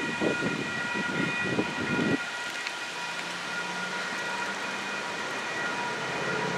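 Strong wind gusting against the microphone for about the first two seconds, then easing, over a steady high chord of several held tones. A low steady hum comes in about halfway.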